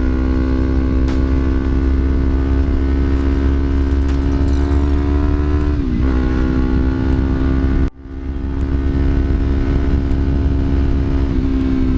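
Yamaha R25's parallel-twin engine running through a Villan MV1 aftermarket exhaust at steady revs, with a deep, bassy note. The pitch dips and comes back about six seconds in, and the sound cuts out for an instant just before eight seconds.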